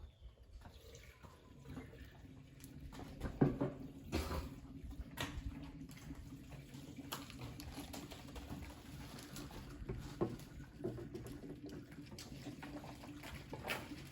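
Water running into a tractor radiator as it is filled, with a few knocks and a low steady hum starting a few seconds in.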